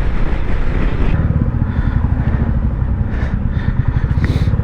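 Royal Enfield Bullet 350's single-cylinder engine running while the bike is ridden along, a steady rapid low pulse of exhaust beats.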